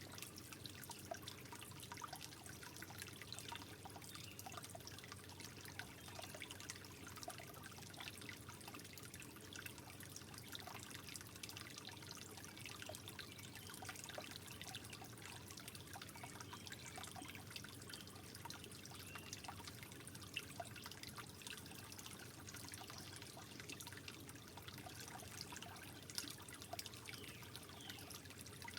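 Water trickling softly: a steady, faint wash dotted with many small splashes and drips.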